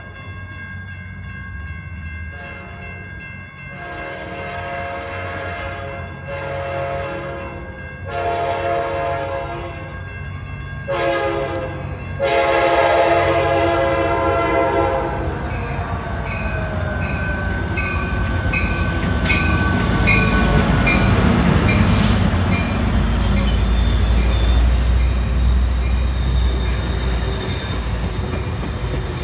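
Sound Transit Sounder commuter train approaching and sounding its horn in a series of long and short blasts. Its bilevel coaches then roll past close by with a heavy low rumble and wheel noise, while a bell dings steadily.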